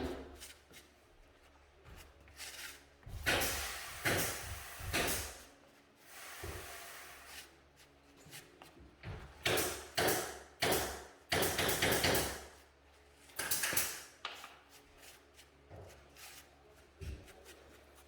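Irregular scrapes, knocks and rubbing of hard objects being handled, with a short hissing stretch about six seconds in.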